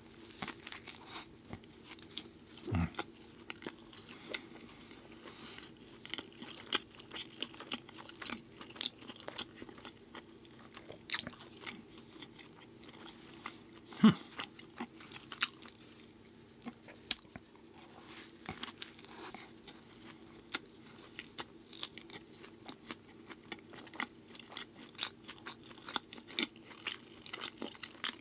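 Close-miked eating: chewing and crunching a vegan Impossible Burger, with many small wet mouth clicks over a low steady hum. There is a sharp click about halfway through and a duller thump about three seconds in.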